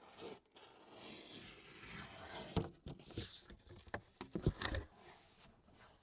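Styrofoam board scraping and rubbing for the first couple of seconds, then several light knocks.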